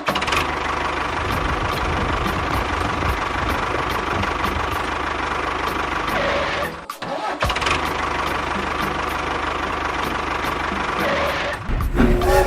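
Small engine running steadily, in two stretches split by a brief break about seven seconds in. Near the end it gives way to louder music.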